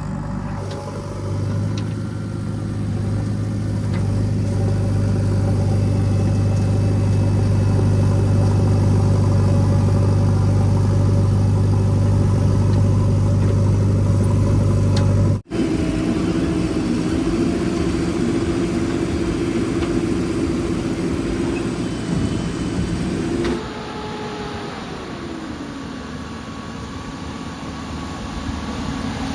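Heavy-machinery diesel engines running steadily. About halfway the sound breaks off abruptly to a higher engine note, and near the end an engine's pitch falls away.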